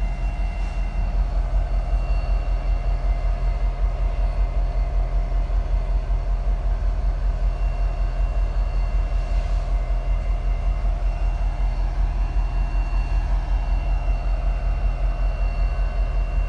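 Diesel locomotive engine idling: a steady low rumble with an even, rapid throb.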